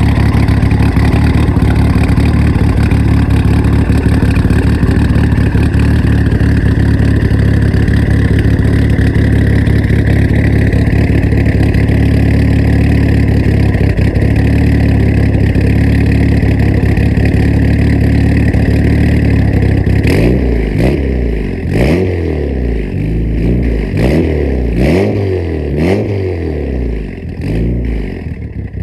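Mitsubishi Evo VII's turbocharged 4G63 four-cylinder running steadily through a full 3-inch Tomei Ti Expreme titanium exhaust, its idle loping from 266 cams. About twenty seconds in, the throttle is blipped several times in quick succession, the revs rising and falling with each blip.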